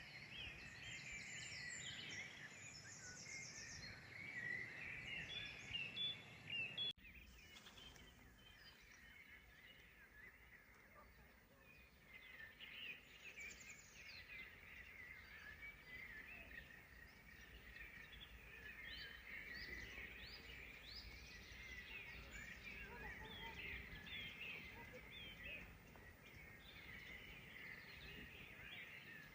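Many songbirds singing at once, a faint, steady chorus of overlapping chirps and trills. About seven seconds in, the low background hum drops away abruptly at an edit, and the birdsong carries on.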